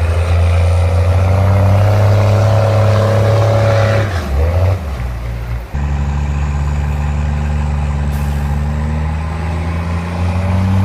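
An M939-series 5-ton military truck's diesel engine runs loud and steady. The sound changes abruptly about halfway through, as at a cut between clips, and the engine note rises near the end as it is revved.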